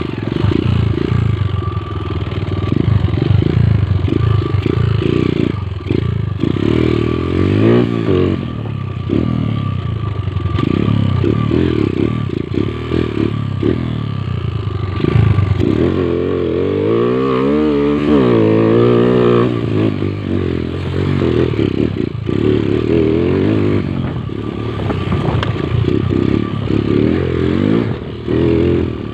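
Motorcycle engine running while ridden, revving up and down with the throttle, with a clear rise and fall in pitch about two-thirds of the way through.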